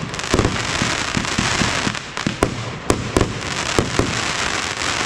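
Fireworks going off: a dense, continuous crackle with irregular sharp bangs scattered through it.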